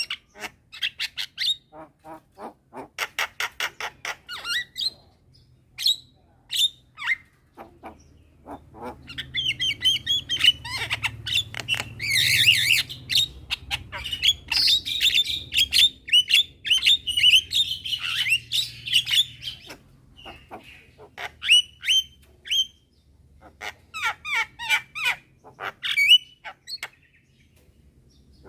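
Several Javan mynas (white-vented mynas) calling back and forth: runs of short harsh notes and clicks, thickening into a loud stretch of overlapping chatter from about nine to twenty seconds in.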